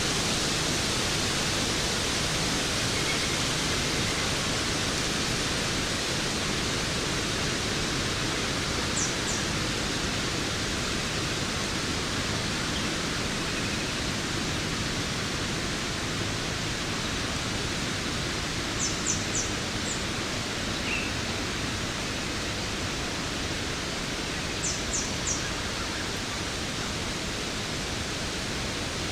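Waterfall, its water rushing in a steady, even hiss. Brief high chirps come in quick twos and threes a few times.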